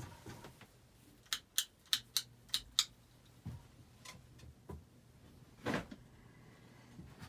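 Hunter Original ceiling fan running at medium speed with a low steady motor hum. About a second in comes a quick run of six light clicks.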